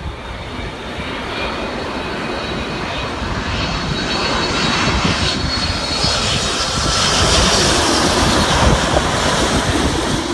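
Jet airliner on final approach to land, its engines growing louder as it comes in low overhead, with a high whine that drifts slightly down in pitch.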